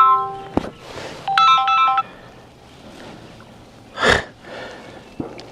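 A short electronic jingle of steady beeping notes, like a phone ringtone, heard twice in the first two seconds. A brief rushing noise follows about four seconds in.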